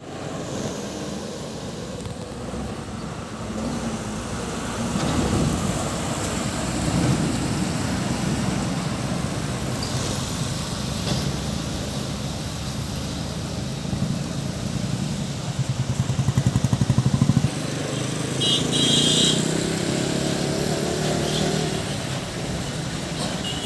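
Heavy diesel buses and a truck working their engines uphill through a tight hairpin bend: a low, steady engine drone that swells as vehicles pass. About two-thirds of the way through, a loud, rapidly pulsing engine note lasts a couple of seconds, followed by a brief high-pitched tone.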